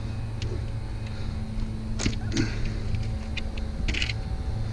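A steady low mechanical hum that stops a little past three seconds in and comes back near the end, with scattered light clicks and a short rattle about four seconds in.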